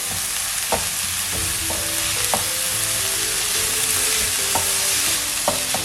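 Sliced onions sizzling in hot coconut oil as they are stirred in the pan to soften them, with a few light knocks against the pan.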